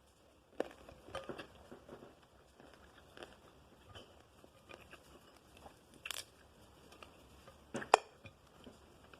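Someone eating cooked blue crab by hand: scattered small cracks, crunches and chewing noises as the shell is broken and picked apart, with a sharper crack about six seconds in and the loudest one near the end.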